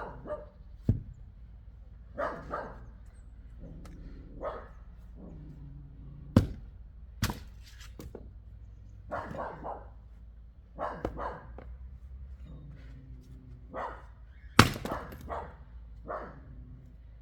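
A dog barking repeatedly in short calls while wood is chopped: four sharp axe knocks on wood, the loudest near the end.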